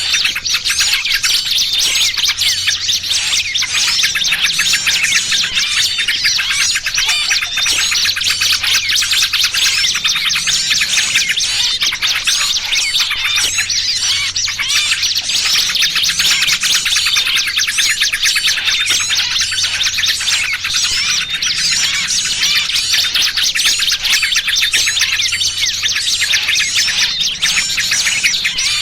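Lure recording of many small birds chirping and calling fast and without a break: a noisy mix of yellow-vented bulbul calls and the distress calls of a trapped small bird, used to draw wild birds in. A faint low hum swells and fades every few seconds beneath it.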